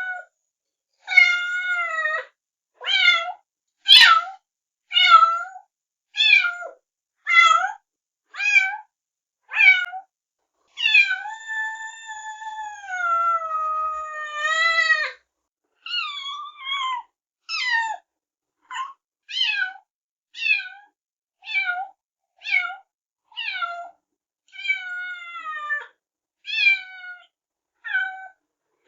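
Kitten meowing over and over in short, high-pitched cries, roughly one a second, with one long drawn-out meow around the middle.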